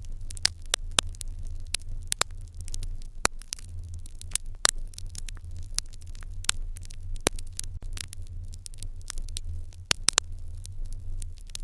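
Fire in a Japanese irori hearth crackling, with irregular sharp pops several times a second, a few louder ones, over a steady low rumble.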